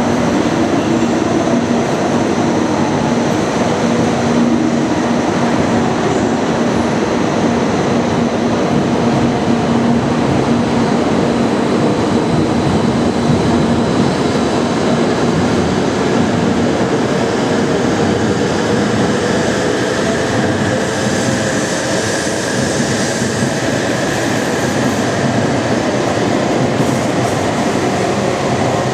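Tohoku Shinkansen train moving along the station platform: a steady, loud rush of wheel and running noise. In the second half a faint whine slowly rises in pitch.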